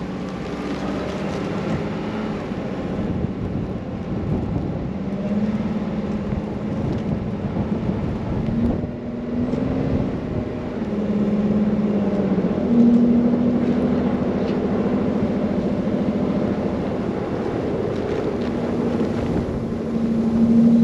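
Car driving through a snowstorm: a steady engine hum that steps up and down in pitch several times, over a continuous rush of wind and road noise.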